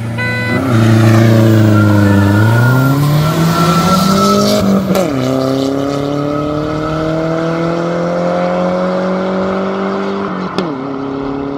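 Cars launching from a standing start in a drag race: the engines rev up and climb in pitch as they accelerate away, with a sharp drop at an upshift about five seconds in and another near the end. A short beep sounds right at the start.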